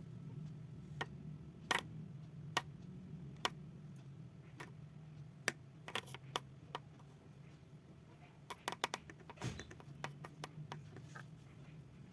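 Irregular sharp clicks and taps, sometimes single and sometimes in quick clusters, over a steady low hum.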